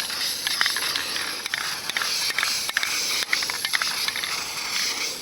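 Aerosol can of metallic spray primer hissing steadily as paint is sprayed, with small clicks and ticks throughout.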